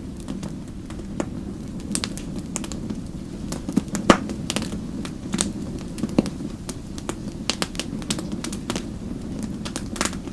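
Wood fire burning with a steady low rumble and irregular sharp crackles and pops, the loudest pops about four and six seconds in.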